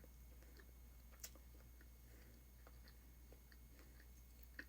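Faint chewing of a bite of shrimp fried rice, with a few soft mouth clicks over a low steady hum.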